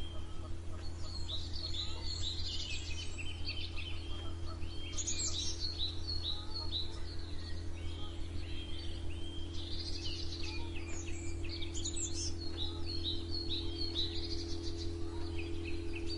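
Several songbirds chirping and singing in quick, overlapping calls, over a steady low hum.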